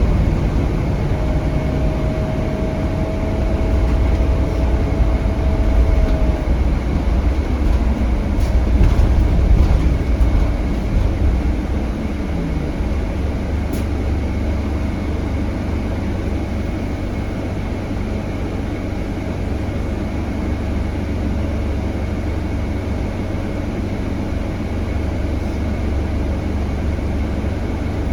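Scania K320HB bus heard from inside the cabin while under way, its Scania DC9 five-cylinder diesel running with a heavy low rumble and a steady whine for several seconds near the start. After about eleven seconds it settles into a quieter, even drone.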